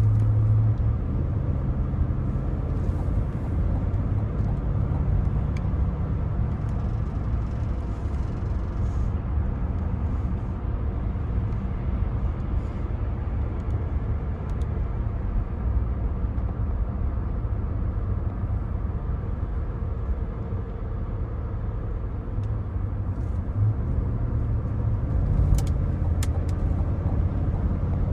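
2024 Cadillac Escalade ESV being driven: steady road and tyre noise with the low drone of its 6.2-litre V8. The engine note swells briefly at the start and again near the end, where a few faint clicks are heard.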